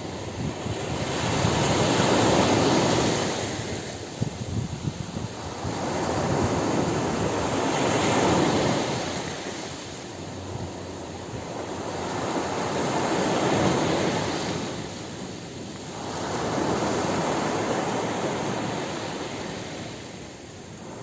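Ocean surf breaking on a beach: four waves in turn, each swelling up and washing back out over a few seconds.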